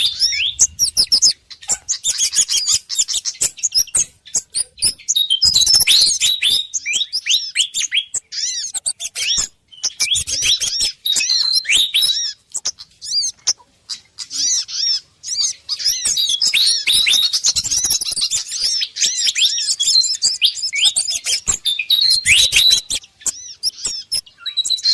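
Dense, agitated chirping of small birds layered over each other: a bird-lure recording of excited pied fantail (sikatan kipas) calls mixed with sogon and kemade calls. Rapid sharp high notes and quick downward sweeps follow each other almost without pause, broken only by a few short gaps.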